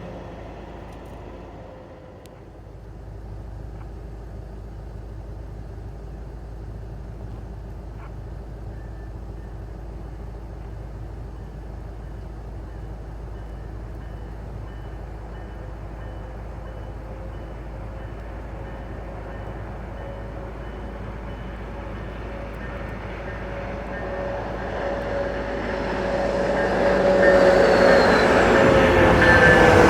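Siemens Charger diesel-electric locomotive and its passenger train approaching, a faint low rumble for most of the time, then growing much louder over the last several seconds as it nears, with a steady tone sliding down in pitch near the end.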